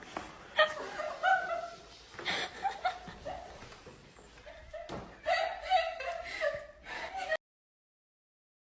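A person's voice laughing and vocalising, with a few sharp knocks. It cuts off abruptly to silence about three quarters of the way through.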